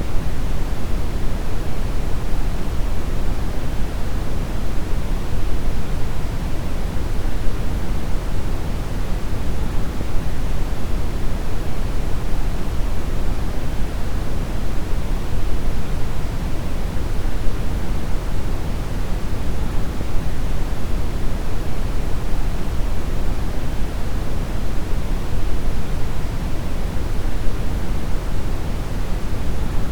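Steady deep brown noise: an even, unchanging rumbling hiss, strongest in the bass and falling off toward the treble.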